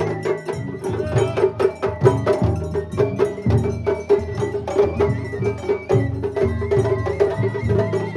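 Japanese festival ohayashi music from a float: drums and percussion beaten in a fast, steady rhythm, with short high held notes over it.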